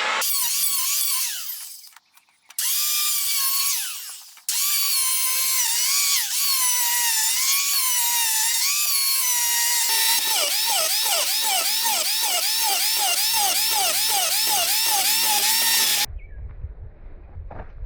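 Electric power tool running, its pitch dipping and recovering as it takes load. It stops twice briefly in the first few seconds and cuts off sharply near the end.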